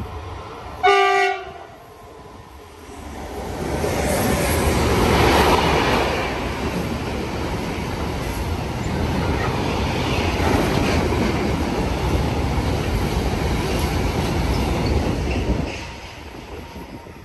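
A train horn sounds one short blast about a second in. Then a train runs through the station without stopping: a rushing rumble builds over a couple of seconds, holds for about ten seconds, and drops away near the end.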